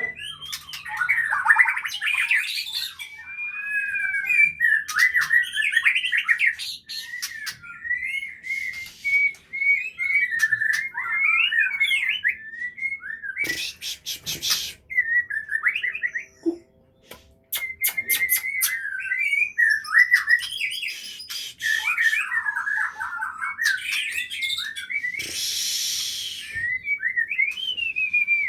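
White-rumped shama (Aceh murai batu) singing a long, rapidly varied run of whistled phrases, breaking off briefly about halfway through, with a few sharp clicks in between.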